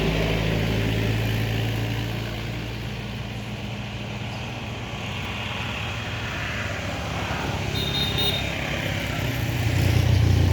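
An engine running steadily with a low hum, growing louder near the end.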